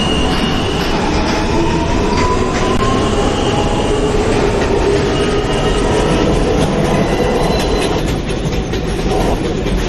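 New York City Subway J train running between stations: a steady rumble of wheels on rail with faint squealing tones over it.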